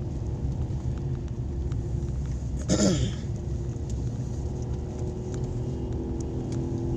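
Vehicle engine running steadily at a constant speed while driving, a low even rumble with a steady hum. A brief louder burst comes about three seconds in.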